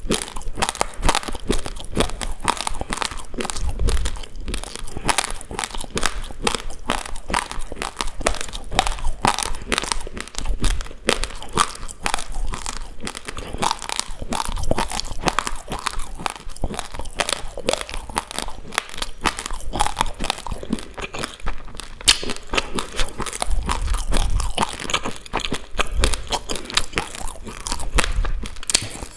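Close-miked crunching and chewing of a mouthful of raw, uncooked basmati rice grains: a continuous stream of rapid small crunches as the hard grains are ground between the teeth.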